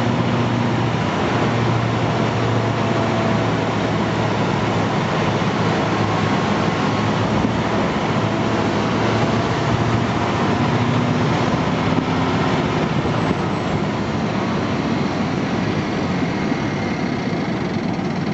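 Scania timber truck driving, heard from inside the cab: a steady engine drone under loud road noise, the engine note shifting a little in pitch.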